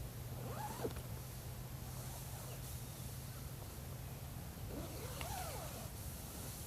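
Faint animal calls, two short cries that rise and fall in pitch, one near the start and one about five seconds in, over a steady low hum.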